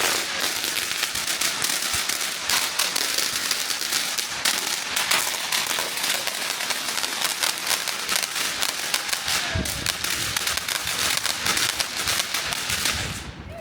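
Firecrackers going off in a dense, continuous run of rapid bangs, with a few deeper thuds about ten seconds in, then stopping abruptly near the end.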